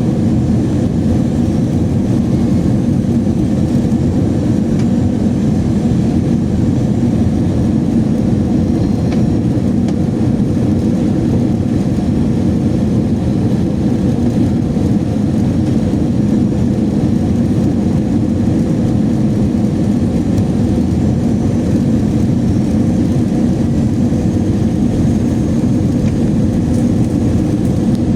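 Steady drone of an Airbus A321's CFM56 jet engines and airflow, heard from inside the passenger cabin.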